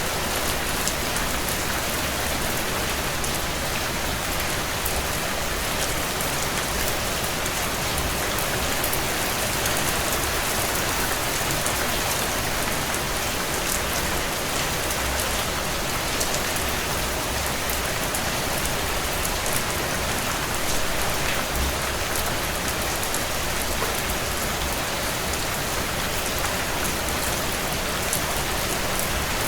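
Heavy rain falling steadily on a tin roof: a dense, even hiss of rain with many separate drop ticks.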